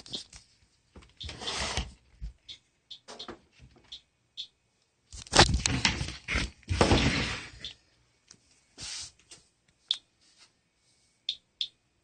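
Geiger counter giving sparse, irregular short high beeps as it registers counts. In the middle there are a couple of seconds of loud rustling and handling noise.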